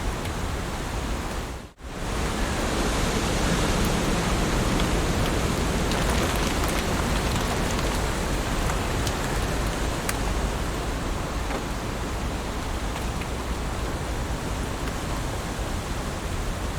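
Heavy rain falling steadily, a dense even hiss with scattered faint drop ticks. The sound dips sharply to near silence for a fraction of a second a little under two seconds in, then resumes.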